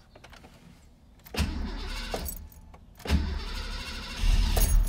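Starter cranking a Ford 306 cu in small-block V8 for its first start on newly installed Holley Terminator X fuel injection. It cranks in two short goes about a second and a half and three seconds in, then catches near the end and runs with a louder, steady rumble.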